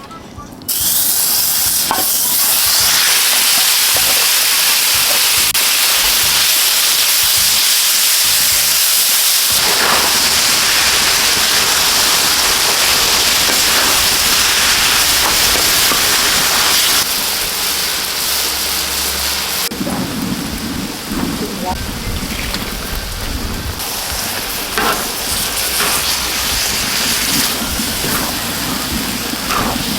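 Spicy stir-fried pork frying hard in a hot pan over a wood fire: a loud, steady sizzle that starts suddenly about a second in and eases somewhat after about 17 seconds, with a few brief knocks.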